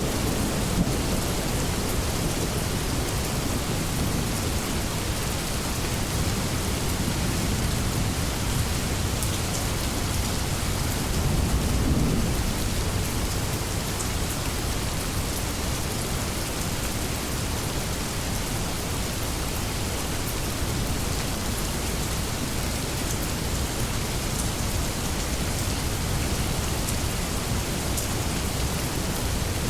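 Steady rainstorm: rain falling with low rumbling thunder, the thunder swelling briefly about twelve seconds in.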